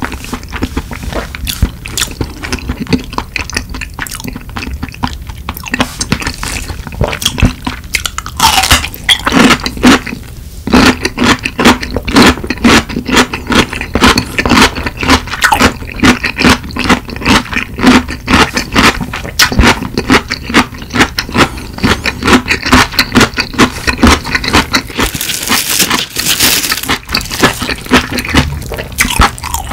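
Close-miked chewing and mouth sounds of a person eating curry rice, a steady run of short wet smacks and chews, with a wooden spoon scraping through the rice in the bowl near the end.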